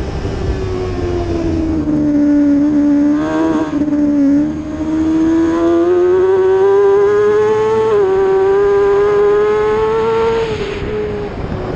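600-class superbike racing motorcycle engine at high revs: its pitch sags over the first two seconds, then climbs steadily for several seconds as the bike accelerates, and falls away near the end.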